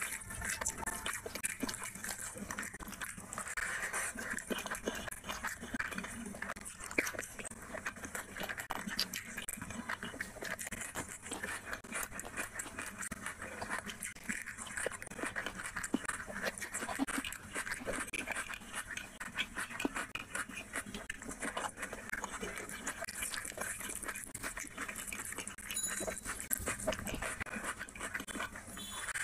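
Close-miked chewing and wet lip-smacking of rice and curry eaten by hand, with a steady run of small mouth clicks and crunchy bites of raw onion.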